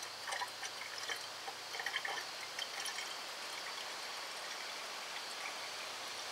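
A 50-50 antifreeze and water coolant mix pouring from a jug into the radiator of a 1986 Ford F150. It is a steady trickle of liquid, with small splashes in the first few seconds. The dry, freshly rebuilt engine's cooling system is still taking coolant in and is far from full.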